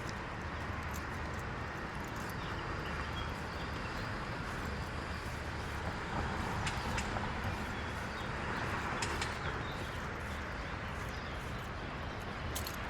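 Street traffic on wet roads: a steady hiss of tyres on wet tarmac that swells a little in the middle as vehicles pass, with faint footsteps on the pavement.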